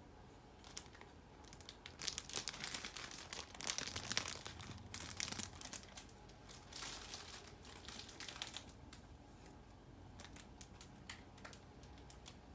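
Crinkling and rustling, like something being crumpled or handled, dense for several seconds and then thinning to a few scattered clicks.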